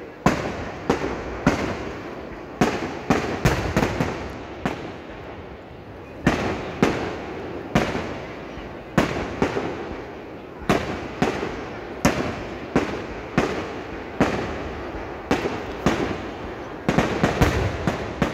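Fireworks going off in a rapid, irregular series of sharp bangs, each fading briefly, with a short lull about five seconds in and a quick cluster of bangs near the end.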